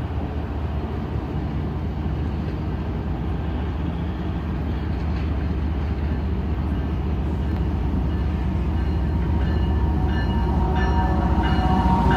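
Diesel locomotives rumbling steadily, the sound slowly building as an approaching train draws near. Thin high-pitched tones come and go over the last few seconds.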